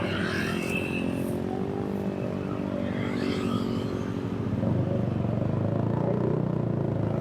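Engine of a road vehicle running while underway, growing louder about halfway through.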